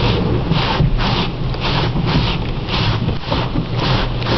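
Automatic car wash running over a car, heard from inside it: a steady low rumble with a hissing swish that repeats about twice a second as the washing gear sweeps across the body.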